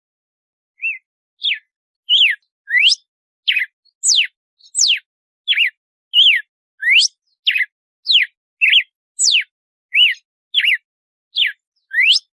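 Red-cowled cardinal (galo-de-campina) singing its 'açoite' song: a run of clear whistled notes, about two a second, each a quick sweep that alternately rises and falls, starting about a second in.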